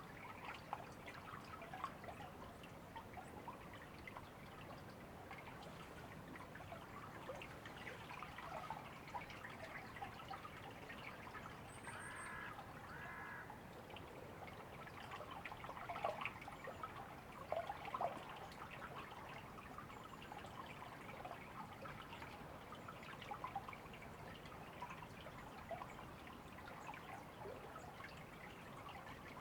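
River water trickling and burbling, made of many small splashes. About twelve seconds in, a bird calls twice, a second apart.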